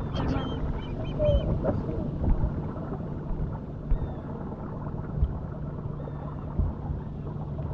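Small boat's motor running steadily at low speed with a low, even hum, and a few sharp knocks scattered through.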